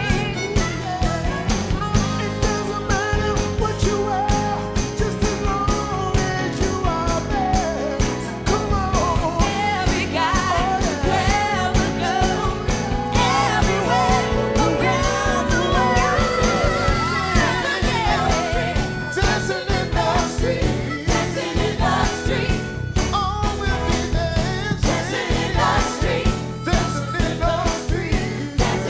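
Live band and singers performing a Motown soul song: lead and backing vocals over a steady drum beat.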